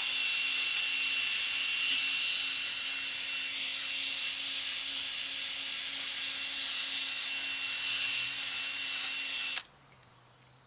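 Electric drill spinning a 3M sanding disc against a plastic headlight lens: a steady high whine that cuts off suddenly near the end.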